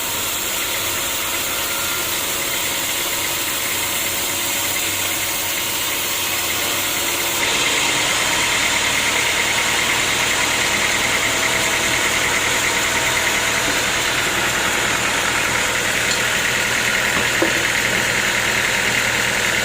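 Sawmill machinery running steadily with a continuous mechanical drone. About seven seconds in, it steps up louder and harsher, with more hiss, and stays there.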